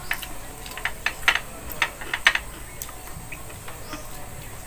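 Close-up eating sounds: chewing and wet lip smacks from people eating fried chicken and rice by hand, heard as a run of short, sharp smacks, thickest in the middle of the stretch.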